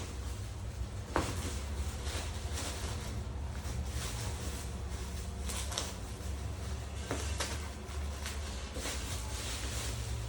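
Packaging and tools being handled during an unboxing: scattered clicks, knocks and rustles, the sharpest about a second in and around six and seven seconds in, over a steady low hum.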